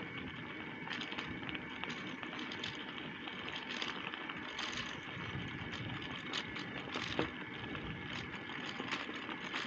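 Bicycle riding noise: a steady rush of tyres and wind, with frequent small clicks and rattles from the bike.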